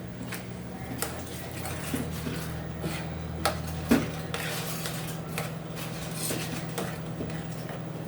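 Utensils clinking and scraping against pots and dishes, with a handful of sharp knocks spread through, over a steady low hum.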